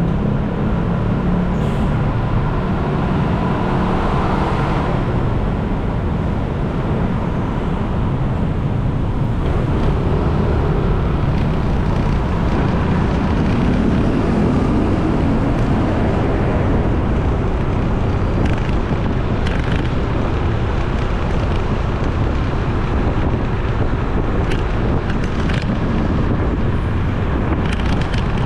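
Motorcycle riding through city traffic: steady engine and road noise with wind on the microphone, the engine note rising and falling now and then.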